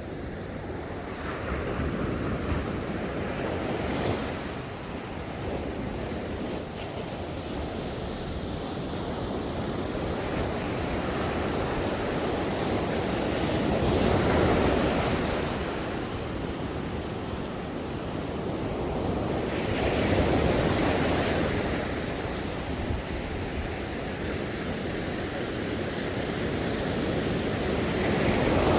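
Ocean waves breaking and washing on a shore in slow, repeated surges, each swell rising and fading over several seconds, with a steady rush of surf between them.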